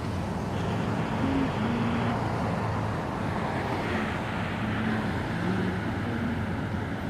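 Steady rumble of car engines and road traffic.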